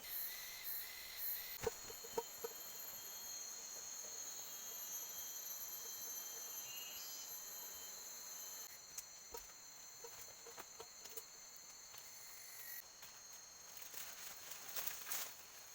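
Forest insects buzzing steadily in several high pitches, some dropping out or changing partway through, with scattered sharp clicks and knocks, the loudest about two seconds in.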